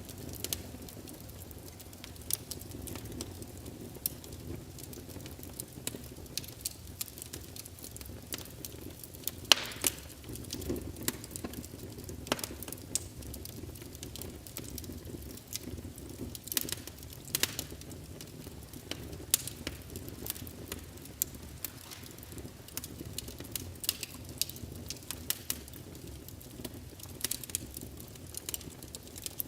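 Fireplace crackling: irregular sharp pops and snaps over a low steady rumble of burning wood, with one louder pop about ten seconds in.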